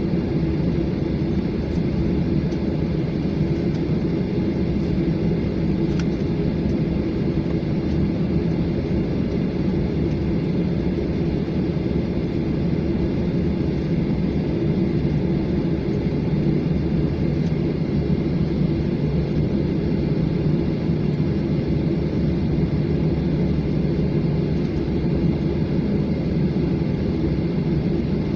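Steady low rumble and engine hum heard inside an airliner cabin while it taxis before takeoff, unchanging throughout.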